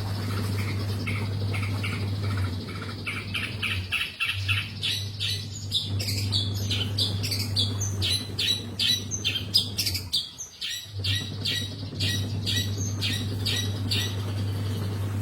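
Long-tailed shrike (cendet) singing actively: a long run of quick, harsh repeated notes, about three or four a second, with a short pause a little after two-thirds of the way in. A steady low hum runs underneath.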